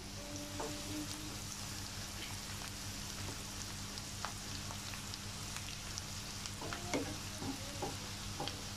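Chopped onions, curry leaves and cumin sizzling steadily in hot oil in a nonstick frying pan as they sauté, stirred with a wooden spatula that gives small scattered scrapes and clicks against the pan.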